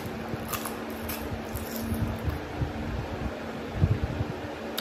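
Close-up mouth sounds of a whole pani puri being eaten: a few crisp crunches of the fried shell in the first second, then chewing with soft low thumps, the loudest near the end. A steady hum runs underneath.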